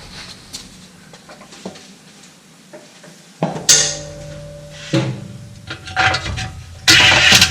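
Light metal clinks of nuts and bolts, then a power tool run in short bursts on the mulch-kit nuts, the last and loudest burst a fast, even rattle.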